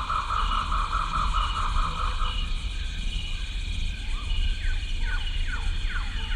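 Animal calls over a steady background hum: a fast pulsing trill that stops about two seconds in, then a run of short falling chirps, about two a second.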